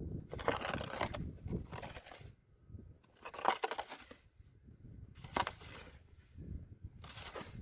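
Snow shovel blade scraping and pushing through snow over gravel and rocks, in about five separate strokes a second or so apart.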